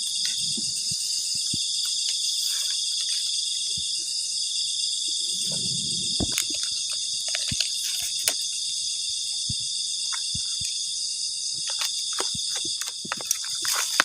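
Dense insect chorus, a steady high-pitched buzzing and trilling, with scattered light clicks and taps on top.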